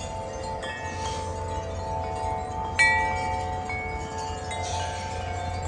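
Wind chimes ringing in strong wind, several long tones overlapping, with a sharper new strike about three seconds in. Wind rumbles low on the microphone underneath.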